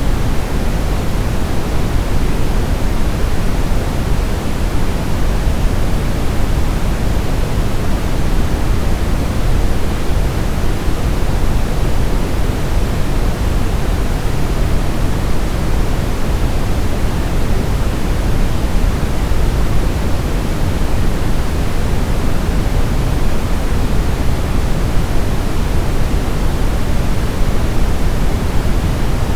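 Continuous steady sleep noise of the kind sold as white noise for babies, weighted toward the low end like pink noise, with no changes or breaks.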